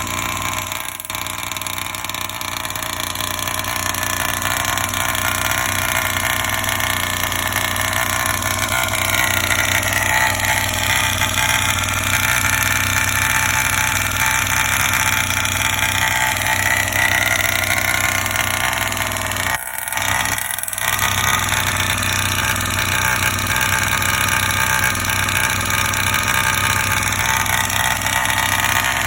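Rovan Baja 36cc two-stroke engine running steadily on its first start-up, with two brief dips in the sound about two-thirds of the way through.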